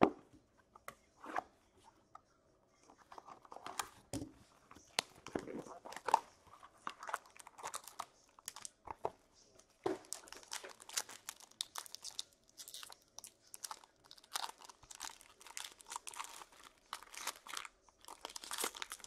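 Plastic wrapping and card packaging crinkling and tearing, with many small scattered clicks, as a sealed box of hockey trading cards is unwrapped and opened.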